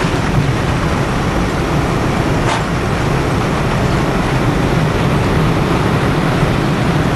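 Loud, steady airliner cabin noise during landing: engine and airflow noise over a low rumble.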